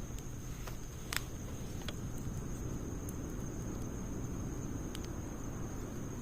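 Wood fire burning in a Snow Peak fire stand: scattered sharp crackles and pops, the loudest about a second in, over a low steady noise.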